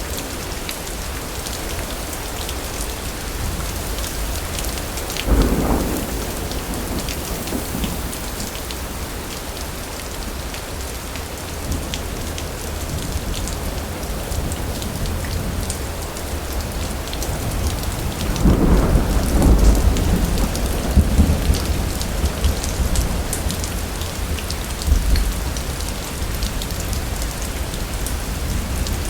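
Steady heavy rain with thunder: a sharp thunderclap about five seconds in, then a longer, louder roll of thunder a little past the middle.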